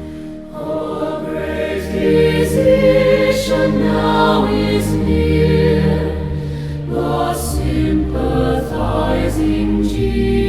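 A choir singing a slow hymn in full harmony over sustained keyboard chords, the chords changing every second or two.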